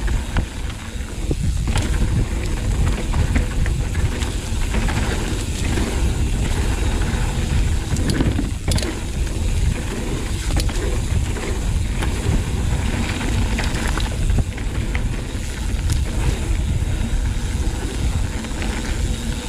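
Mountain bike riding down a rough dirt trail: a steady rumble of wind and tyres on the ground, with scattered clicks and knocks as the bike rattles over bumps.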